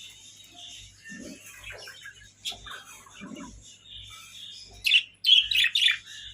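Budgerigars chirping and twittering, with a quick run of louder, sharp chirps about five seconds in.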